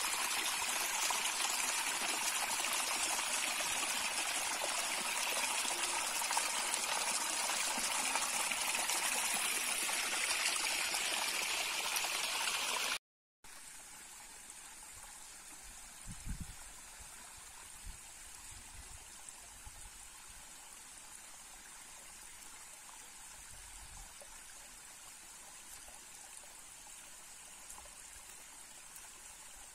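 Steady rush of flowing stream water for the first half, cutting off abruptly. It is followed by a much quieter, steady hiss with a few soft low thumps.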